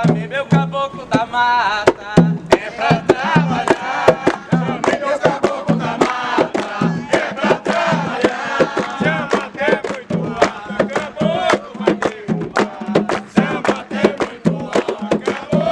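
A group of voices singing a chant together over a steady drum beat, with sharp percussive clicks and strikes throughout.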